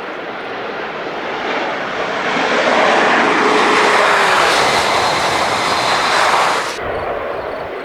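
TGV high-speed train passing at full speed: a rushing roar that builds over about two seconds, holds loud, then drops off sharply about seven seconds in.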